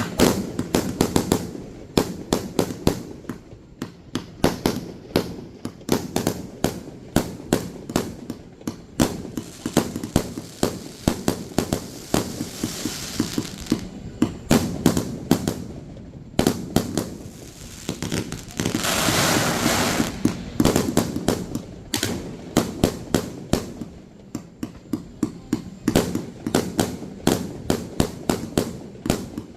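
Aerial fireworks display: rapid, continuous bangs of shells bursting, several a second, with two stretches of hissing between the bangs, one near the middle and a louder one about two-thirds of the way through.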